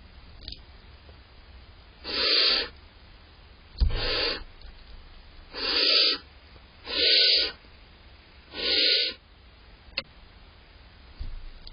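Barn owl owlets giving their hissing 'snore' calls, the begging call of young barn owls. There are five short hisses at intervals of a second or two, with a few faint knocks in between.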